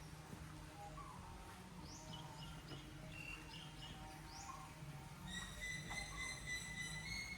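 Birds chirping, with quick rising calls and short high notes over a low outdoor background rumble. From about five seconds in, a steady high-pitched tone joins and holds, stepping up slightly near the end.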